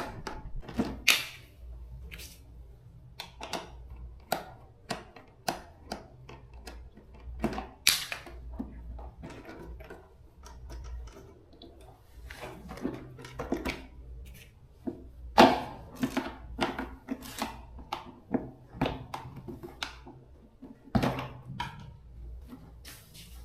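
Irregular clicks and knocks of tools and small metal parts being handled during hand repair work on a fan motor, with a few louder knocks.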